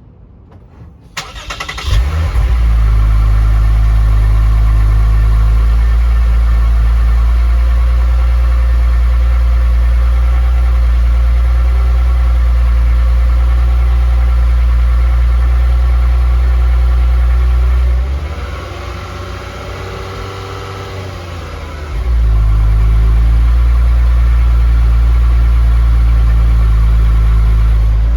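Lexus IS350's 3.5-litre V6 with its factory exhaust being cranked by the starter and catching about two seconds in, then running steadily and loudly. About 18 seconds in the level drops for roughly four seconds, then returns to the same steady level.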